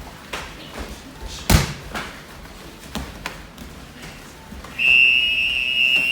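Scattered thuds of bare feet stamping and landing on a hall floor during karate practice, one much louder than the rest about a second and a half in. Near the end a steady high electronic tone, like a timer buzzer, sounds and keeps going.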